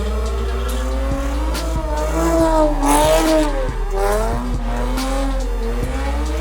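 A car sliding with its tyres squealing, the squeal wavering up and down in pitch and loudest about three seconds in.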